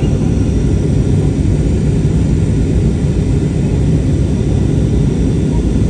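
Airbus A320neo airliner cabin noise: a steady, loud low rumble of engines and rushing air heard from inside the cabin.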